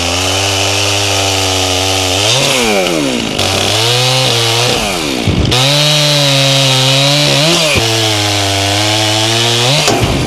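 Stihl MS400C chainsaw cutting through a log to take the stump end off. The engine's pitch holds lower under load in the cut and rises sharply a few times as the load eases.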